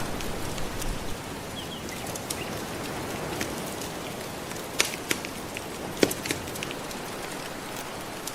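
Wood fire crackling, with a few sharp pops about halfway through, over a steady wash of gentle ocean waves.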